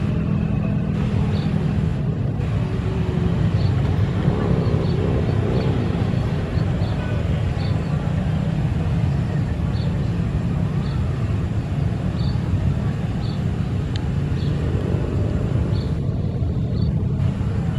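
Jet airliner engines running steadily at low power, a constant low rumble, with faint regular ticks about once a second.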